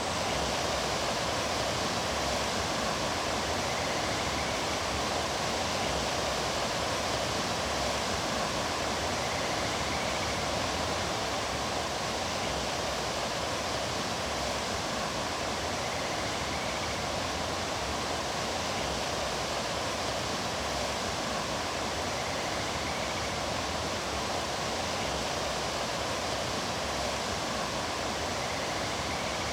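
Mountain stream water rushing steadily over rocks, a dense even roar of flowing water.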